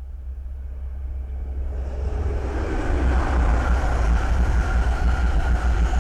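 East Midlands Railway Class 222 Meridian diesel multiple unit approaching and passing at speed, its noise building over the first few seconds and staying loud.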